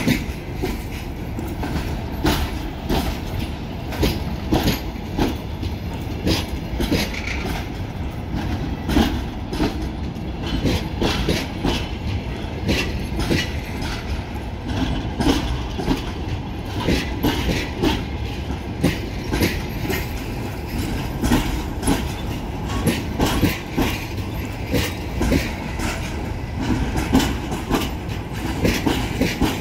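Russian Railways passenger coaches of a departing train rolling past, their steel wheels clacking over rail joints in quick, uneven beats over a steady rumble.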